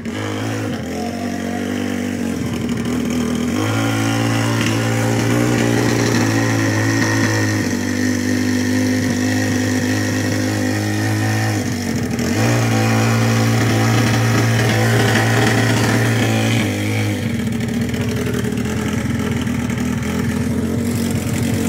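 Four-stroke drag motorcycle engine revved hard and held at a steady high pitch, typical of a burnout heating the rear tyre at the start line. It dips briefly about halfway through, comes back up, then settles to lower revs near the end.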